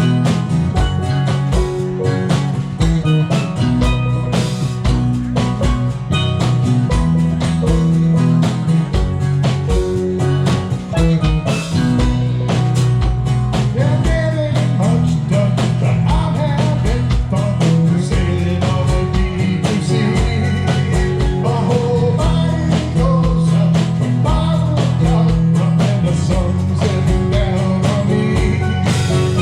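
Live band music: guitar, steel drums, drum kit, percussion and bass playing a song with a steady beat, with some singing.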